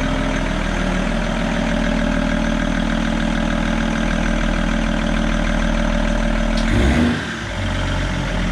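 BMW M57 turbo-diesel straight-six running steadily in a Land Cruiser Troopy, with a brief change in engine speed about seven seconds in before it settles again.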